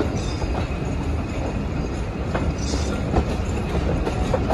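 Train of passenger carriages running along the line, heard from an open carriage window: a steady rumble with the wheels clicking and knocking over the rail joints.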